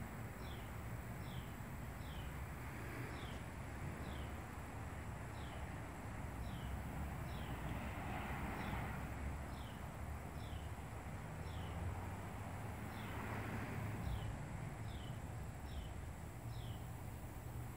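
A bird giving short, falling chirps over and over, about two a second, over a steady low hum and faint outdoor background noise.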